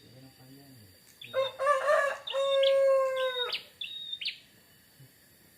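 A rooster crowing loudly, one long call in the middle, over a prinia's short high chirps repeated about once a second.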